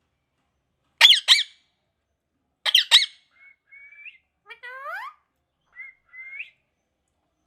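Pet parrot calling: two pairs of loud, harsh squawks, about a second in and again near three seconds, followed by softer short rising whistles and chirps.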